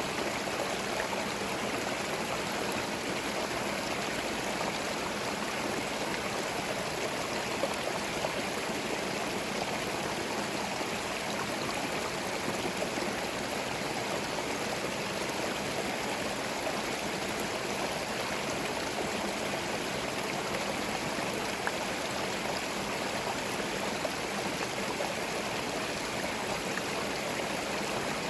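A small forest stream running over stones, a steady babbling and gurgling of water that holds even throughout.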